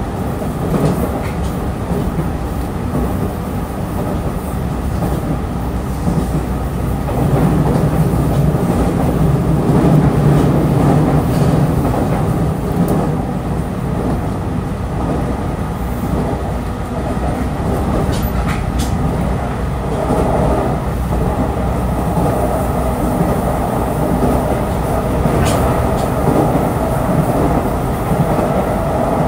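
Running sound of a JR 313 series electric multiple-unit train on the move: steady rumble of wheels on rail, swelling louder for a few seconds about a quarter of the way in, with a couple of brief sharp sounds later on.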